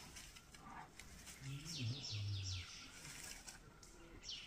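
A small bird calling a quick run of about four high, falling chirps, with another chirp near the end.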